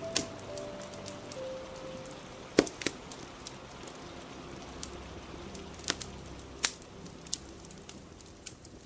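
Fire crackling with several sharp pops, over a steady patter of rain.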